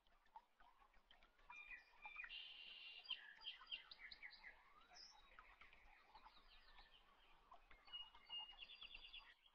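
Faint birdsong: several birds chirping and trilling, busiest in the middle, with a rapid trill near the end.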